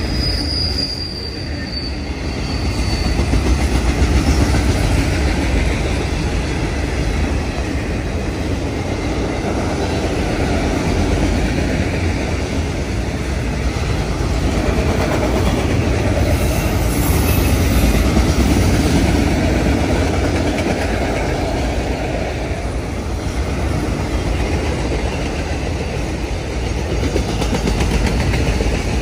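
Train cars rolling past on the rails in a steady rumble, with a thin, high wheel squeal in the first few seconds that falls slightly in pitch.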